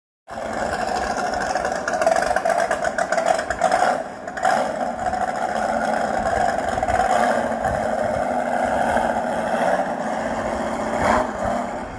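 Motorboat engine running with a steady buzzing drone, starting abruptly and briefly dipping about four seconds in.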